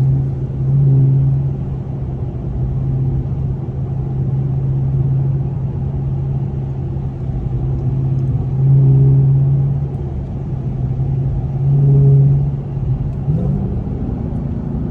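Supercharged V8 of a Dodge Charger Hellcat on its stock exhaust, a steady low drone while driving. It swells louder three times, and near the end its pitch rises as the car accelerates.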